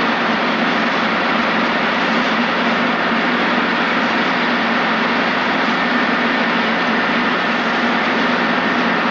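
Robinson piston helicopter in cruise flight, heard from inside the cockpit: a steady drone of engine and rotor that does not change.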